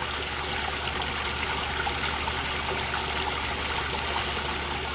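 Water splashing and trickling steadily down a koi pond's rock waterfall.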